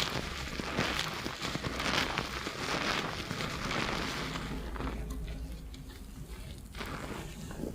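Fingertips scrubbing a shampoo-lathered scalp, with crisp crackling and squishing of the foam. The scrubbing eases off about five seconds in and starts again near the end.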